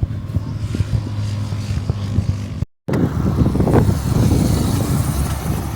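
A vehicle running with a steady low hum under rough rumble and crackle; the sound drops out for a moment a little before halfway, then comes back rougher.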